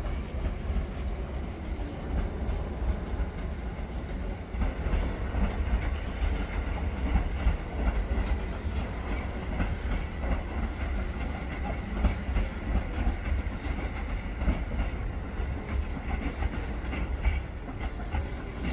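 Electric multiple-unit train running through the station, its wheels clicking rapidly over rail joints and points over a steady low rumble.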